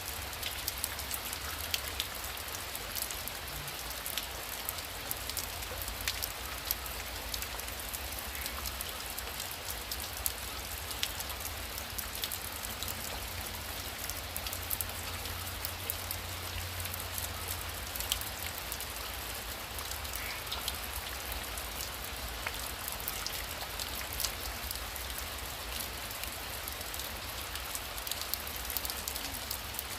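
Heavy rain falling steadily, a dense hiss with many sharp drop ticks.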